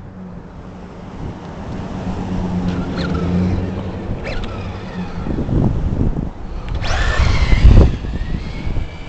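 Radio-controlled touring-car-chassis truck with a brushless motor running on pavement: electric motor whine rising and falling with throttle, over tyre noise and wind on the microphone, loudest a little before the end.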